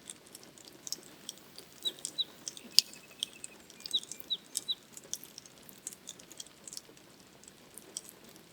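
Scattered sharp clicks of raindrops falling, with a bird giving short high descending chirps, two about two seconds in and three more about four seconds in, and a brief quick trill in between.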